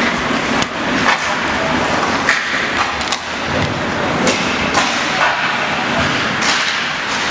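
Ice hockey play: a steady rush of skates on the ice, broken by frequent sharp clacks of sticks and puck, with voices in the rink behind.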